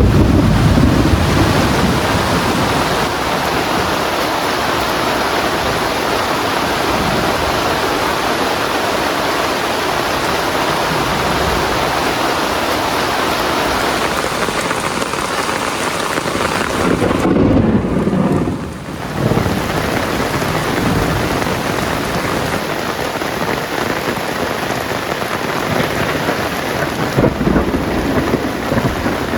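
Heavy rain falling steadily, with low rumbles of thunder swelling now and then.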